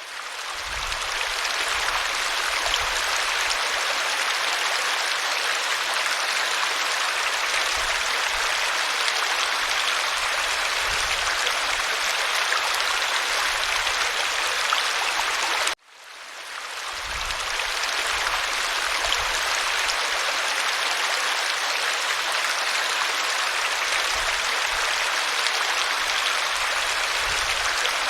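Waterfall: steady rushing water. About 16 seconds in it cuts out for a moment and fades back up.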